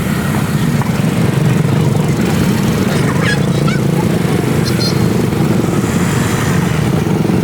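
A small engine running steadily with a fast, even rumble, and a few brief high chirps partway through.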